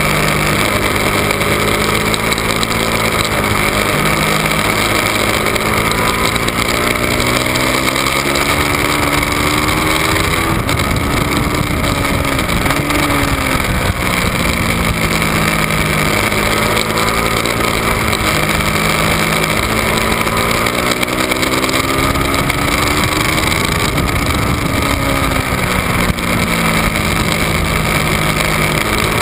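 Ducati 1199 Panigale's 1198 cc Superquadro L-twin engine at racing speed, heard from the bike's own onboard camera. The pitch climbs again and again as it pulls hard through the gears, then falls as the rider brakes and changes down about a third of the way in, and again near the end.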